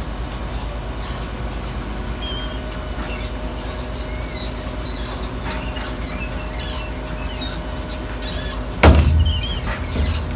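Garbage truck's diesel engine running steadily, with faint high squeaks, then a loud metal bang near the end followed by a smaller thump about a second later.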